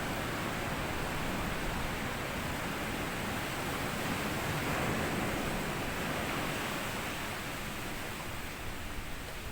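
Sea waves washing onto a sandy beach: a steady wash of surf that swells about halfway through and eases off toward the end.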